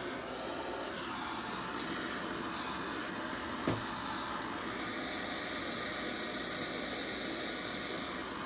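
Oxy-acetylene torch flame burning with a steady hiss as it preheats a cast iron exhaust manifold before welding. A single sharp click comes a little over three and a half seconds in.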